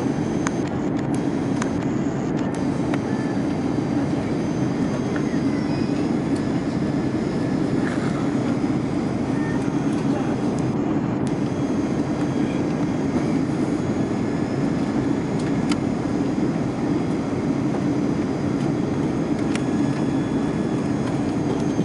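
Steady cabin noise inside an Airbus A340-300 airliner in flight: a deep, even hum from its four engines and the airflow, with faint thin high whining tones over it.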